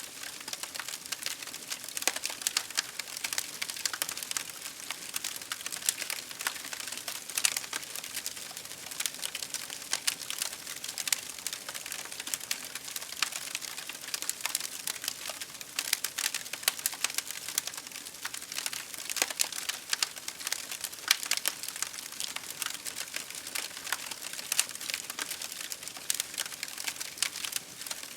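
Campfire crackling: dense, irregular pops and snaps over a steady hiss.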